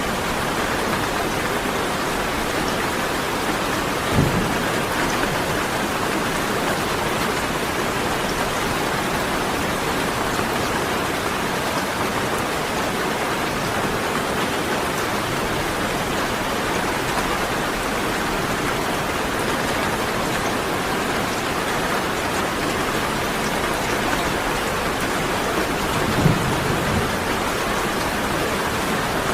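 Rain falling steadily, an even hiss, with two brief low thumps: one about four seconds in, one near the end.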